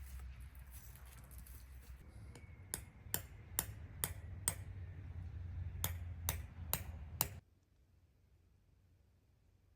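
A series of nine sharp, ringing knocks, in a run of five and then a run of four, about two a second, over a low rumble. Everything cuts off abruptly about seven seconds in.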